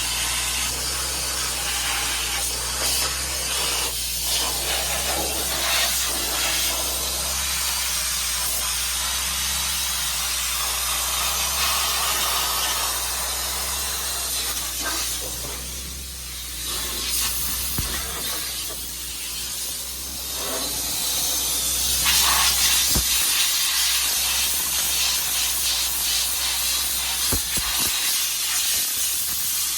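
Hino Mega truck's 380 hp diesel engine running, heard as a steady low rumble under a loud hiss. A few sharp clicks come in the second half.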